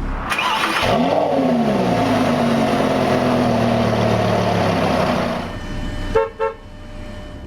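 Lamborghini Gallardo LP570-4 Superleggera's 5.2-litre V10 revved once: the engine note climbs sharply about a second in, then sinks slowly back down over several seconds. A short pulsing tone sounds near the end.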